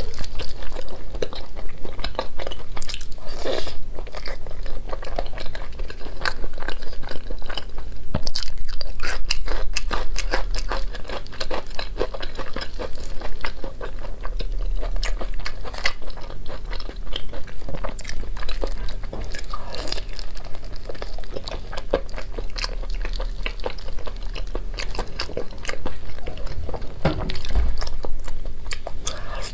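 A person chewing and biting braised pork with its skin, close to the microphone: a dense, continuous run of wet crunches and small clicks.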